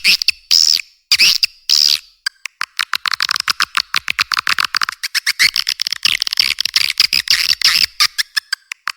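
Swiftlet calls on a swiftlet-house lure recording: a few long, loud twittering calls in the first two seconds, then a fast run of short chirps and clicks, about ten a second, that eases off briefly near the end. The sound is thin, with no low end.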